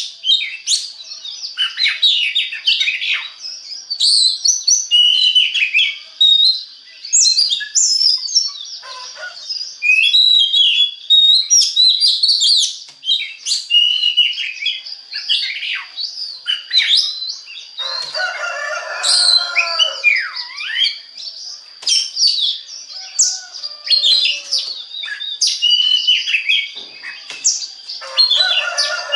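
Oriental magpie-robin (kacer) singing a fast, varied song of chirps, whistles and trills without a break, with harsher, lower-pitched notes about 18 seconds in and again near the end. A faint steady high tone runs underneath.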